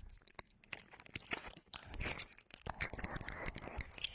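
Wet mouth sounds and licking close to a binaural dummy-head microphone's ear: a run of tongue clicks and lip smacks with breathy hiss between them, sparse at first and busier from about two seconds in.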